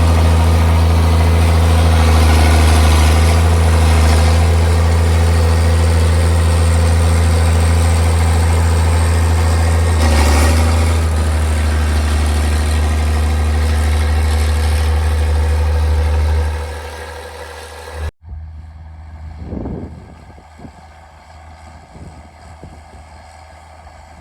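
Straight-piped John Deere 4630's six-cylinder diesel running steadily with a deep, even exhaust note, which dies down about two-thirds of the way through. After a sudden break, only quieter wind-like noise with a few faint thumps remains.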